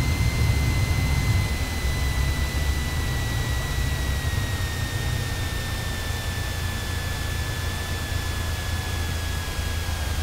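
Cessna 172 cabin noise: the propeller engine's steady drone, with a thin high whine that slowly drops in pitch.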